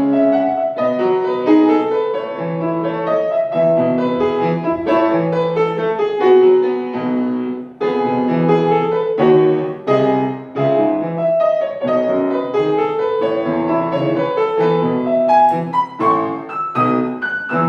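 Solo piano music: a gentle melody over repeated chords, with a few high notes near the end.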